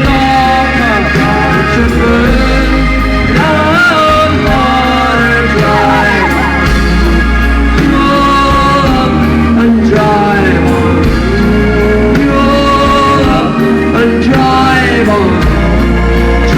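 Indie-folk band playing live, with long held sung notes, some gliding in pitch, over a steady bass line.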